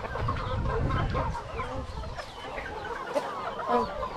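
A flock of Rhode Island Red chickens clucking, many short calls overlapping, with a low rumble under the first second or so.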